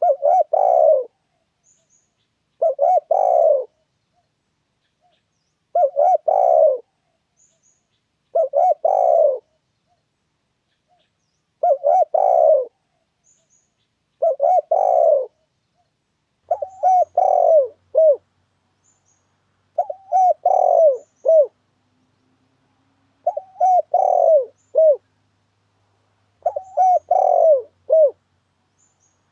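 Spotted dove (tekukur) cooing: a low phrase of several coos, repeated about every three seconds, about ten times. This is a lure call played to draw in wild spotted doves.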